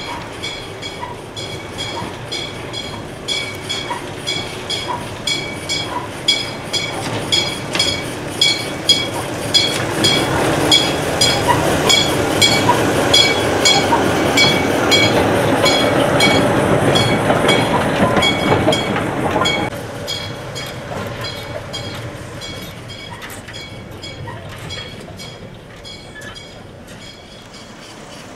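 Railway noise: a steady ticking about twice a second, with a louder stretch of rumbling train noise from about ten to twenty seconds in that drops away suddenly.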